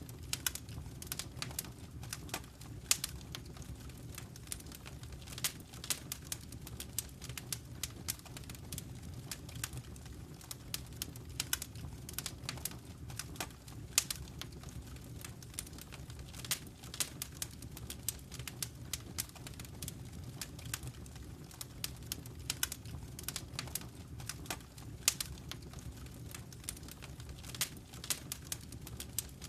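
Wood fire crackling in a fireplace: frequent, irregular sharp pops and snaps over a steady low rumble of the flames, with a few louder pops partway through.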